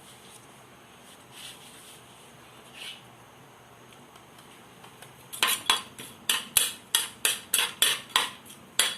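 Spoon knocking and clinking against a clay cooking pot while stirring whole spices in oil: about ten sharp strikes, roughly three a second, starting about five seconds in.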